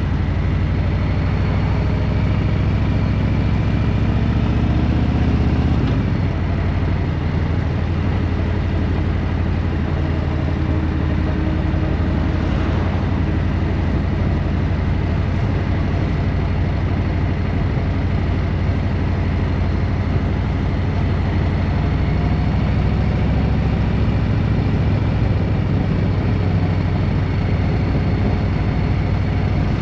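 A motor vehicle being driven: engine running steadily under road noise, the engine note changing about six seconds in.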